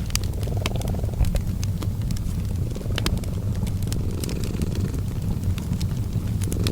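Cat purring steadily, a low rumble that swells and eases with each breath, mixed with a fireplace crackling in scattered sharp pops and snaps.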